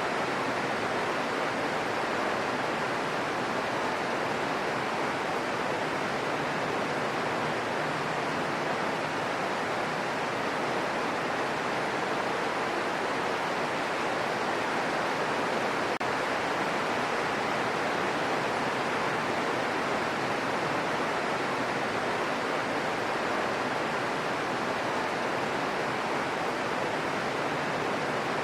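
Steady rain falling as a dense, even hiss.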